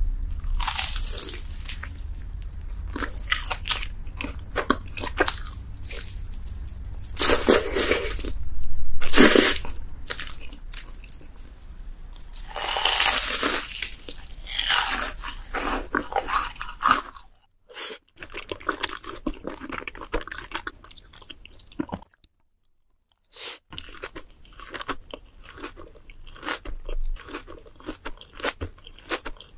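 Close-miked eating: loud crunchy bites into crispy deep-fried food and chewing, coming irregularly, with two short silent gaps past the middle.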